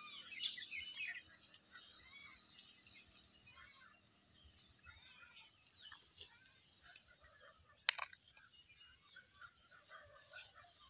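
Faint, scattered bird chirps over a steady high hiss, with one sharp click about eight seconds in.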